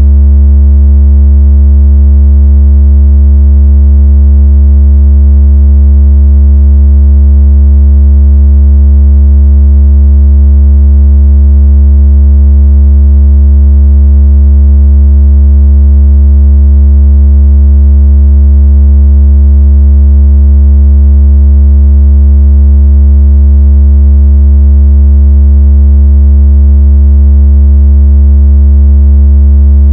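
Very loud, steady synthesized low tone: a deep hum with a faint buzzy edge of overtones, unchanging throughout. It is a water-ejection tone, played to shake water out of a phone speaker and to test bass.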